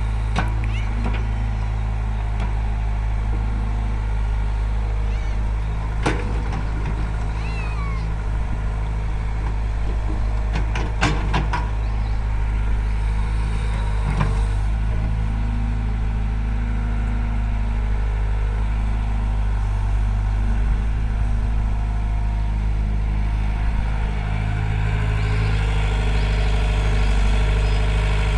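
Heavy diesel engine of a tractor or backhoe loader running steadily at a constant speed. There are a few sharp metallic knocks, about 6 and 11 seconds in, and a brief high squeal in between.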